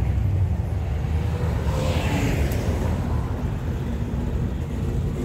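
Vehicle engines rumbling low and steady along the street, with one passing by about two seconds in.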